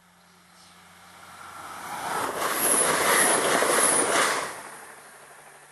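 A train passing at speed: its rumble on the rails builds over about two seconds, is loudest for about two seconds, then fades away.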